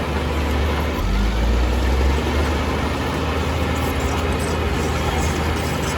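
Heavy diesel earthmoving machinery running steadily, a low engine rumble that swells for about a second, shortly after the start.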